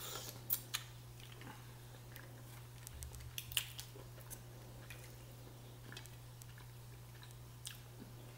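Close-up eating sounds of mussels: quiet chewing and mouth noises, with scattered small clicks of mussel shells being handled. The sharpest clicks come about half a second in and about three and a half seconds in, over a steady low hum.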